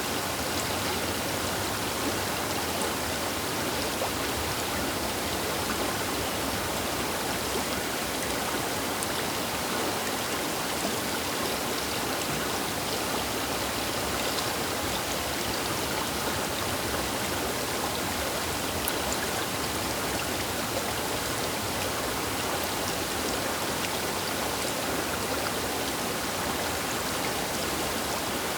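The Baker River running, heard from its bank: a steady, even rush of flowing water with faint small splashes and no change in level.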